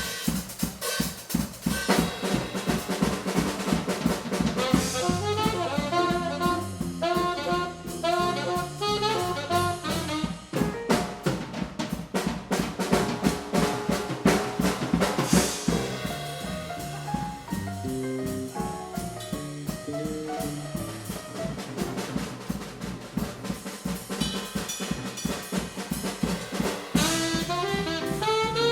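Live small-group jazz with the drum kit to the fore: busy snare, rimshot and bass-drum playing under pitched melodic lines from the other instruments.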